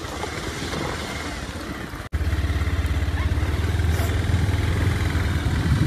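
Motorcycle engine running. About two seconds in the sound cuts out for an instant, then returns much louder as a steady, rapid low engine pulsing close by.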